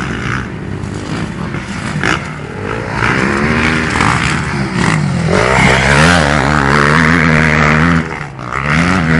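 Motocross dirt bike engine revving hard, its pitch climbing from about three seconds in, dipping briefly near five seconds, then held high before a short drop near eight seconds and another climb.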